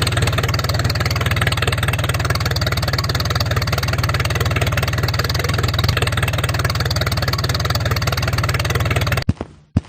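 Small motor of a homemade mini tractor running steadily, with a fast, even low pulsing, then cutting off suddenly near the end.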